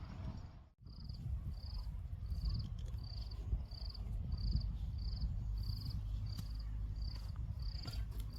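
An insect chirping in a steady rhythm, about two short high trilled chirps a second, over a steady low rumble. The sound drops out briefly near the start, then the chirping begins.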